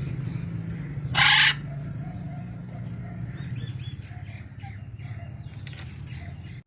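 A parrot gives one loud, harsh squawk about a second in, with a few faint chirps after it, over a steady low hum.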